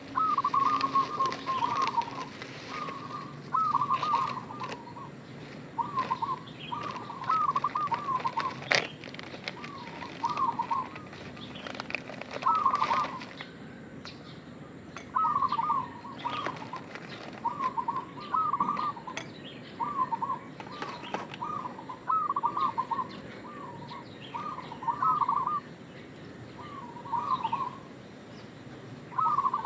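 Zebra dove (perkutut) cooing its quick, trilling phrase over and over, each phrase about a second long with short pauses between. There is a sharp click about nine seconds in.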